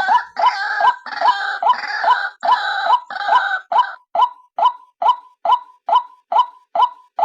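White-breasted waterhen calling: a steady series of short, upward-hooked notes at about two a second. For the first four seconds a harsher, gargling chatter overlaps the notes, and then it drops away, leaving the repeated notes alone.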